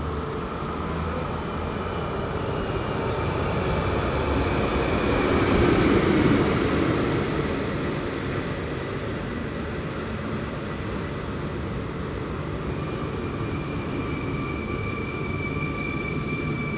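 Train running through a railway station: the rolling noise swells to its loudest about six seconds in, then carries on steadily, with a thin high-pitched squeal coming in during the second half.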